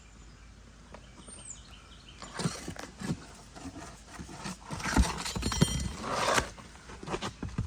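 Scraping, crunching and irregular knocks of hands and tools working over gritty asphalt roof shingles, starting about two seconds in and loudest near the end.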